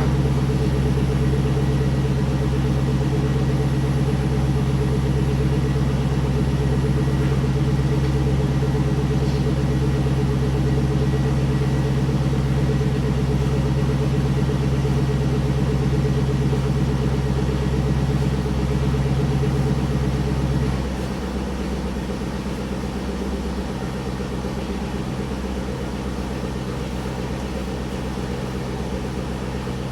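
2002 Camaro SS's 5.7-litre LS1 V8 idling steadily while warming up after a cold start. It drops to a quieter idle about two-thirds of the way through.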